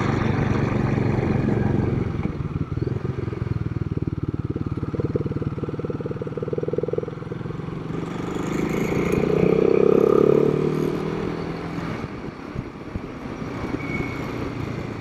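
Royal Enfield Himalayan 452's single-cylinder engine running at low rpm on the road, with a steady rapid beat of firing pulses. It swells louder from about eight to eleven seconds in, then eases back.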